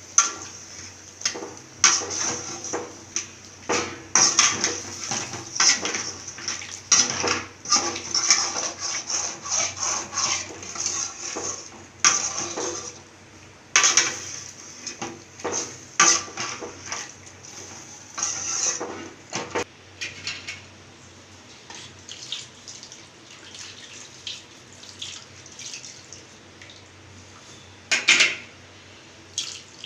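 A metal utensil clinking and scraping against a cooking pot in quick, irregular strokes for about twenty seconds. It then goes quieter, with a few louder clinks near the end.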